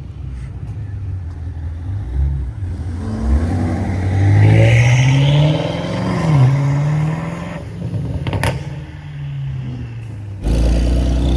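Car engine revving: the pitch climbs and drops several times, with quick rises and falls around the middle. About ten seconds in the sound switches abruptly to a louder, deeper engine rumble.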